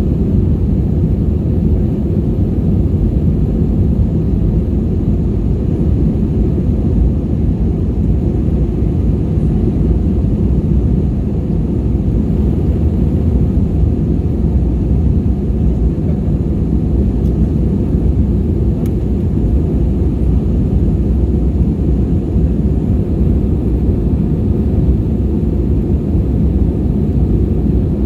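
Steady low rumble inside the cabin of an Airbus A320-232, from its IAE V2500 engines and the airflow, unchanging in level.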